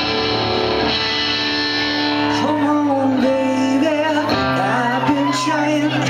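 Live song with guitar: the guitar plays alone at first, then a man's voice comes in singing about two seconds in, holding notes with vibrato over the guitar.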